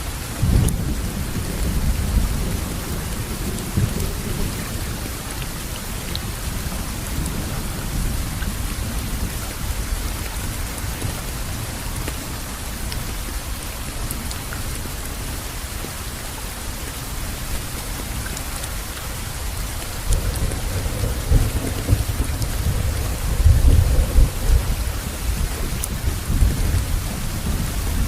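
Steady rain falling, with low rolling rumbles of thunder near the start and again from about two-thirds of the way through.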